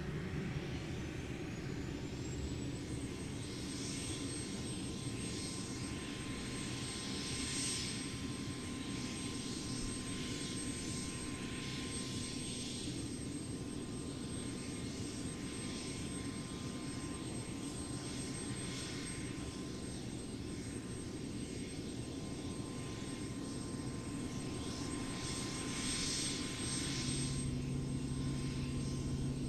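Sikorsky UH-60 Black Hawk helicopter running: a steady rumble of rotor and engines with a high turbine whine that rises in pitch over the first few seconds, then holds steady.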